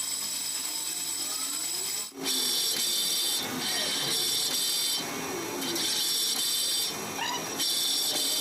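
Metal lathe running with a steady high whine and changing mechanical noise, cut abruptly about two seconds in.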